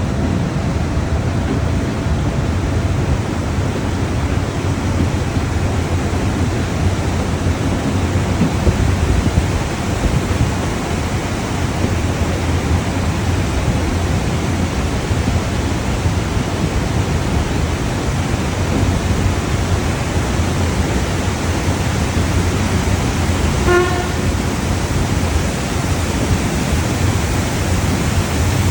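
A train running, a steady loud noise with most of its weight low down, and one short pitched horn toot near the end.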